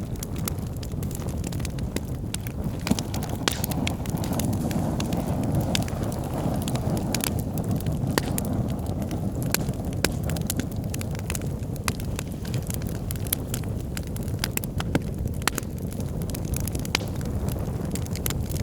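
Wood fire in a fireplace burning logs: a steady low rumble of the flames under frequent sharp crackles and pops at irregular intervals.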